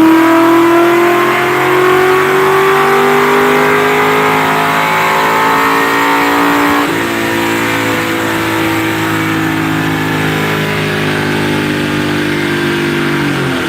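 Ford 4.6-litre two-valve V8 in a 1999 Mustang GT making a wide-open-throttle pull on a chassis dyno, its note climbing steadily with engine speed. About halfway the note changes abruptly and gets a little quieter, then keeps climbing more slowly. It falls away near the end as the pull finishes.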